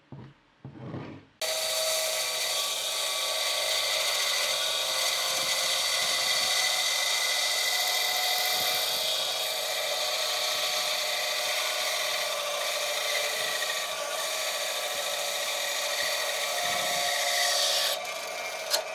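Electric power tool working wood, running steadily with a steady whine over its noise. It comes on abruptly after a couple of short handling knocks and drops off shortly before the end.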